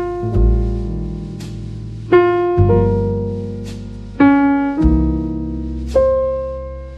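Background music: slow piano chords struck about every two seconds, each ringing and fading, over a low bass line with soft ticks of percussion.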